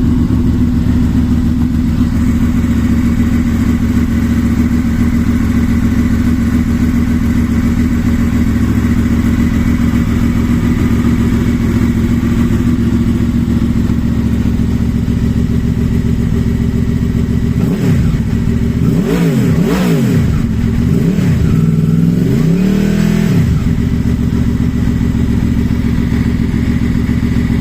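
Honda VFR800's V4 engine idling steadily through a Kucelj exhaust, with a quick series of throttle blips about two thirds of the way in, the last one held a little longer, before it settles back to idle.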